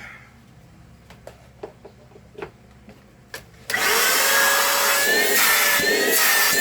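A few light clicks, then about three and a half seconds in a Philco handheld cyclone vacuum cleaner's motor is switched on and runs loudly with a rush of air and a steady high whine: a test run after a new carbon brush and motor shaft bearing were fitted.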